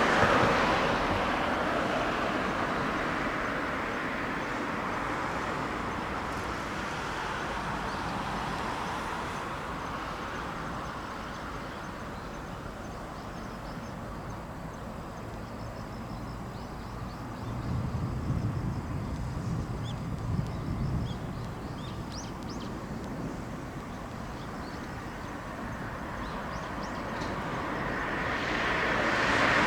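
Jet aircraft engine noise fades over the first several seconds into quieter outdoor ambience with a brief low rumble and faint bird chirps, then jet engine noise builds steadily near the end as an aircraft approaches.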